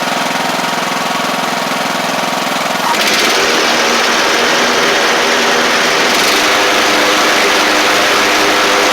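Craftsman LT1000 lawn tractor engine running steadily. About three seconds in the sound jumps to a louder, higher, harsher run and holds there.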